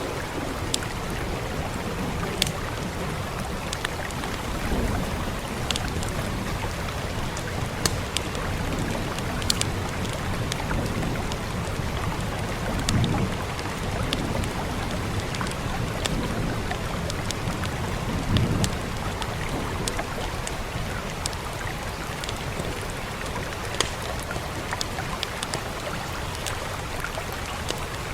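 Steady rain, with the scattered sharp crackles and pops of a wood fire on top. A few low rumbles swell and fade, about a third of the way through and twice more near the middle.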